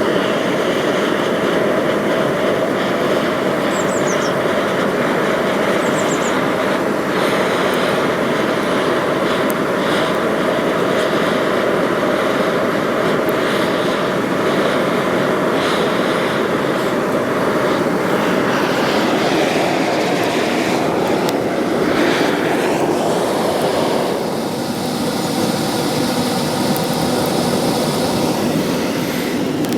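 Electric forge blower fan running at full air, blowing through a lit coke fire: a loud, steady rush of air with a constant hum. The hum fades and the sound shifts a little about two-thirds of the way through.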